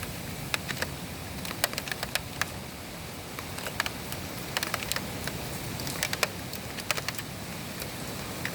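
Rain falling steadily in a thunderstorm, with scattered sharp ticks of raindrops striking nearby hard surfaces.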